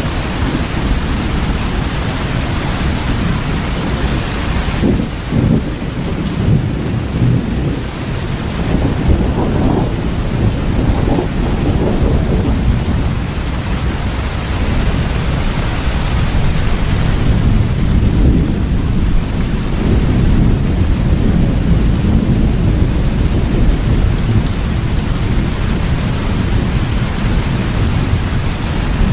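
Steady heavy rain, with low rolling thunder swelling and fading twice under it.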